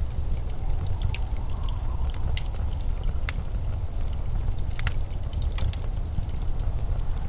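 Winter storm wind as a steady low rumble, with scattered sharp crackling clicks at irregular moments throughout.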